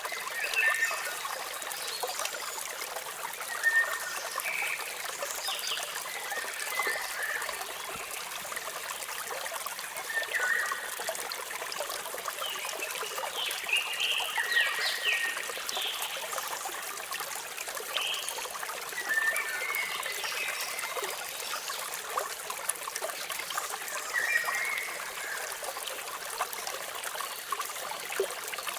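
Waterfall water splashing and trickling steadily, with small birds chirping in short calls every few seconds over it.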